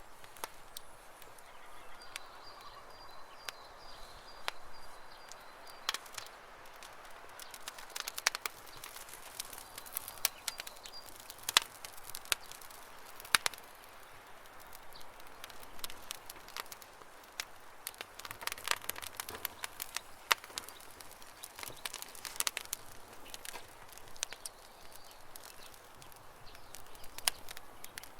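Campfire crackling, with frequent irregular sharp pops and snaps over a soft hiss. A bird chirps in the background with a high, rapid repeated call a few seconds in and again about ten seconds in.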